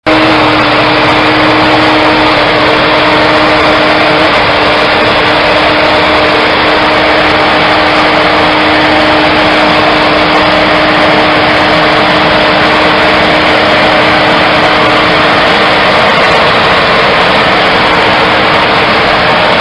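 Loud vehicle engine running steadily with a constant hum, cutting in abruptly after silence.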